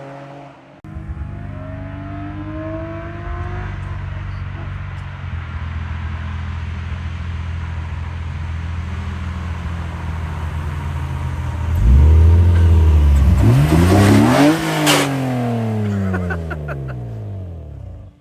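BMW M54B25 2.5-litre straight-six, fitted with an N54 intake manifold, running at a steady engine speed. About twelve seconds in it gets louder and revs up hard, peaking about three seconds later, then winds down as the throttle comes off.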